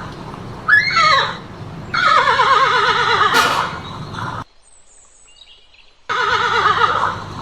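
A horse whinnying: a short call about a second in, then a longer quavering whinny that falls in pitch. The sound drops out briefly past the middle, and the whinnying starts again near the end.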